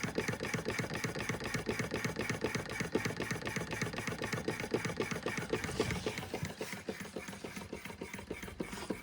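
Antique Carette hot air (Stirling) engine model running, its mechanism clattering in a fast, even rhythm of about five beats a second. It gets quieter over the last few seconds as its burner flame is turned down.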